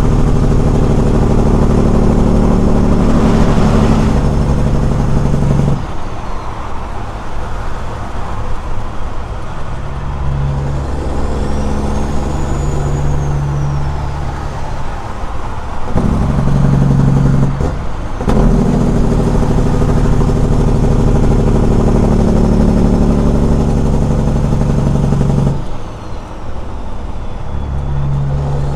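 Caterpillar 6NZ inline-six diesel running loud through straight pipes under way, its steady note dropping off at about 6 s and again near the end and cutting out briefly near 18 s, then pulling back in each time.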